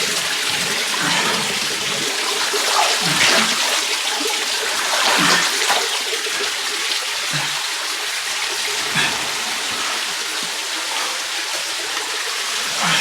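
Steady rush of creek water flowing through a slot canyon, with a few brief splashes about three and five seconds in.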